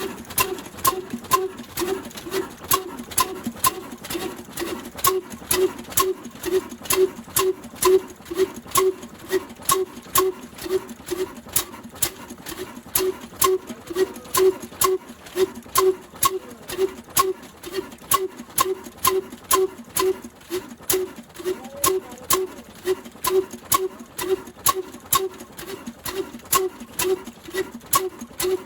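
Old single-cylinder 'black' diesel engine of the Ruston type, running slowly and steadily while driving a flour mill. It beats evenly at about two chuffs a second.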